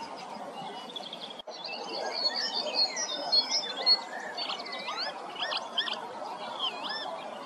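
Several songbirds singing and calling together: high whistled notes, short chirps and quick rising and falling sweeps, over a steady low background murmur. The sound cuts out for an instant about a second and a half in.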